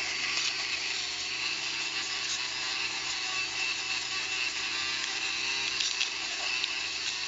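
Small rotary power tool running steadily while grinding and sanding a plastic pressure-cooker handle, a motor hum under a steady gritty hiss.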